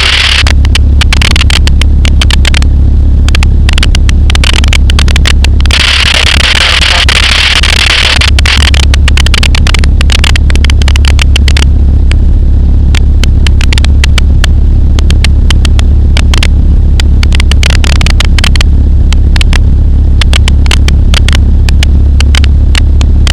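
Pulsar XP microlight's engine droning steadily in flight, heard from the cockpit, with a dense irregular crackle over it and a stretch of hiss in place of the crackle at the start and again about six seconds in.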